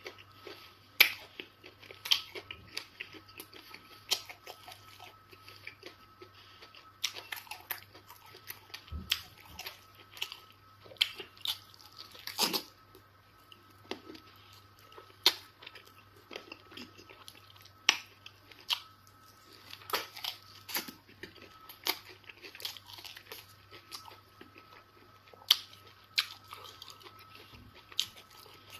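Close-miked mukbang eating sounds: wet chewing and lip-smacking of fufu and eba with egusi soup, in irregular sharp clicks and smacks.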